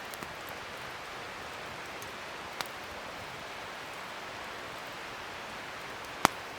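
Wood fire burning with a steady hiss, a few small crackles and one loud sharp pop near the end.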